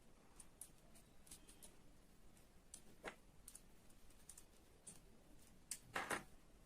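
Faint scattered clicks and light taps of small parts being handled, with a sharper tap about three seconds in and a louder double knock near the end, over near silence.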